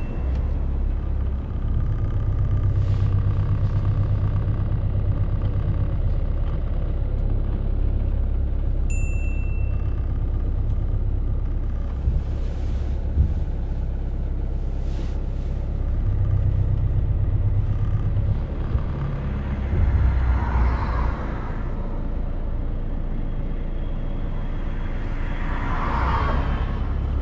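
Car engine running at low speed, heard from inside the cabin while the car reverses slowly: a steady low rumble that picks up slightly a couple of times. A single short electronic beep sounds about nine seconds in, and two brief swells of noise pass later on.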